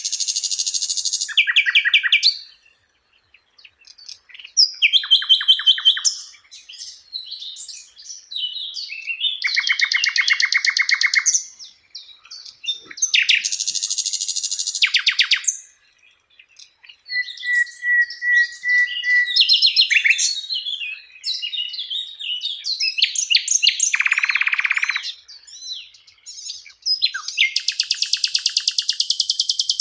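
Sikatan londo flycatcher singing in repeated high-pitched phrases of rapid trills and chatter, each lasting one to three seconds with short pauses between. A thin steady whistle comes in about two-thirds of the way through.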